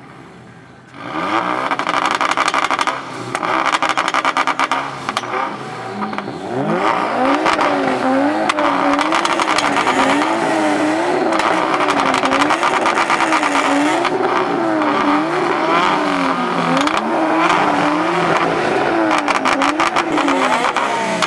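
Car engine revved hard and loud, starting about a second in; from about six seconds the revs swing up and down over and over, roughly every second and a half.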